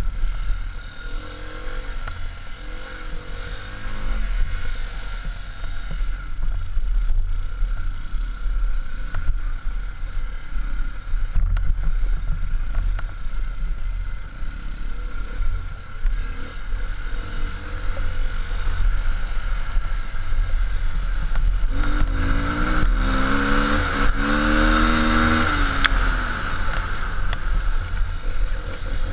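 Car driving on a road with a steady low rumble; about three-quarters of the way through, the engine note rises and falls as it revs.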